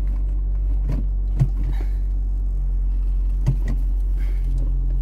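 Car engine idling steadily, heard from inside the cabin, with two short clicks about two seconds apart.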